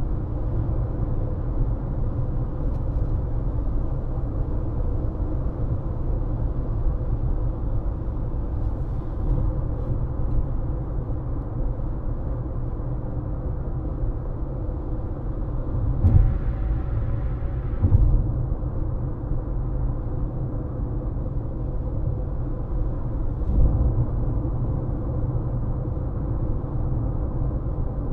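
Steady road noise and low rumble of a car driving, with a faint steady hum. A few brief thumps come past the middle, two of them about two seconds apart, as the tyres pass over bumps in the road.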